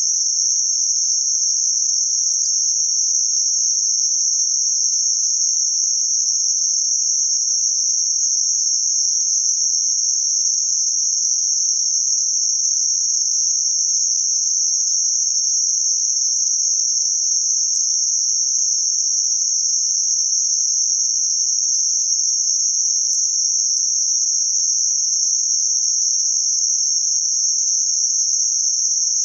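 Synthetic band-limited noise centred near 6 kHz: a steady, high-pitched hiss, with no other sound.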